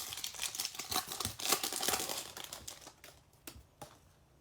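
Foil wrapper of a Topps Chrome baseball card pack crinkling and tearing as it is opened by hand, dying down after about three seconds to a few light clicks.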